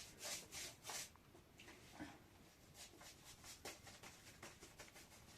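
Faint, irregular scraping or rubbing strokes, several in quick succession in the first couple of seconds, then fainter ones.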